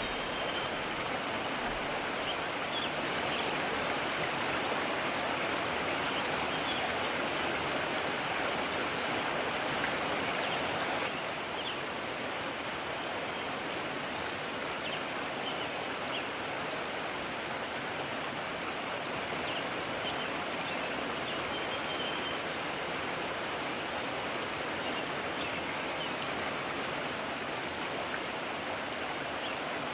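Mountain stream rushing steadily over rocks, a constant hiss of water that drops a little in level about a third of the way in.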